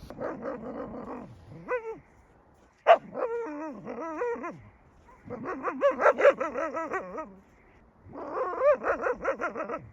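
Dog vocalising in wavering whines and yowls, in four spells with short pauses between them. A short, sharp yip about three seconds in is the loudest sound.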